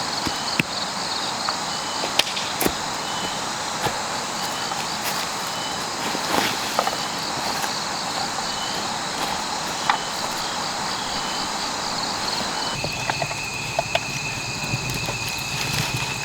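Insects trilling steadily in a pulsing high buzz, with short repeated chirps and scattered sharp clicks and snaps. About three-quarters of the way through the sound changes: a steady high tone and a low hum come in.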